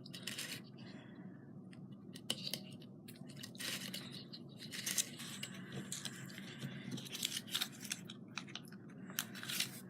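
Irregular light scratching and rustling of small craft materials being handled and worked by hand, in short scattered bursts.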